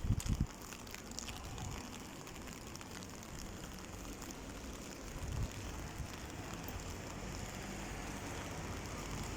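Steady hiss of rain falling on a wet street, with a few low knocks in the first half second and another about five seconds in.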